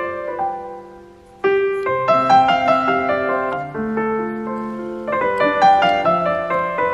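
Background piano music, single notes and chords ringing and dying away; it thins out about a second in, then picks up again with new chords.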